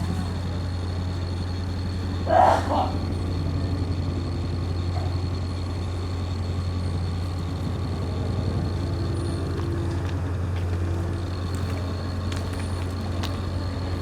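An engine idling steadily, a low even hum with a fine regular pulse. A short higher sound breaks in about two and a half seconds in.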